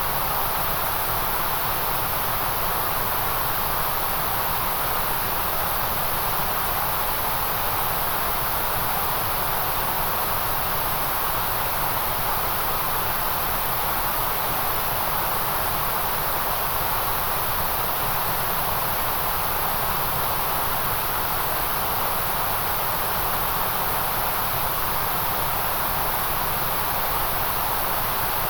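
Steady, unbroken white noise: an even hiss that never changes, brightest in a high sizzle and in a middle band.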